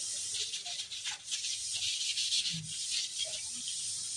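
A kitchen knife being scrubbed during washing-up: a steady, raspy rubbing of a scrubber over the blade.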